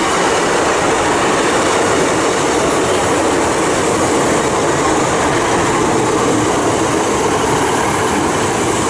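Two coupled Class 150 Sprinter diesel multiple units running past close by: a loud, steady noise of wheels on rails and underfloor diesel engines.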